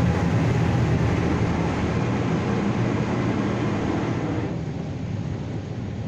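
Water spray from a PDQ Laserwash 4000 touchless car wash hitting the car, heard from inside the cabin over a low steady hum. The spray noise fades about four and a half seconds in.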